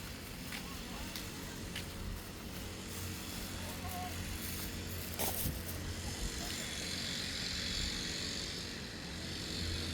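Grass-cutting machine running steadily: a constant low engine drone under a higher whine that grows louder in the second half, with a sharp click about five seconds in.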